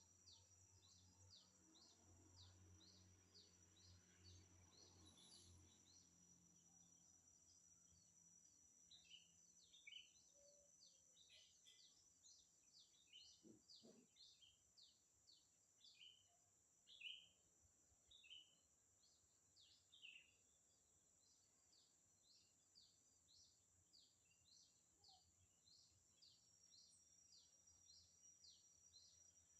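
Faint bird chirping: a run of short, high chirps, several a second, with louder, somewhat lower chirps in the middle, over a steady high-pitched hiss.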